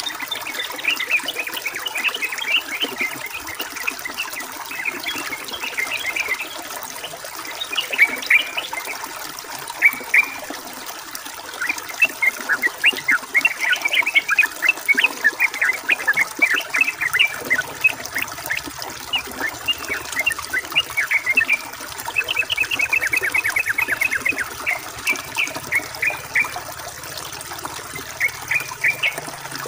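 Sooty-headed bulbul (trucukan) calling in many short, quick notes, with a fast chattering run about three-quarters of the way through, over a steady trickle of running water.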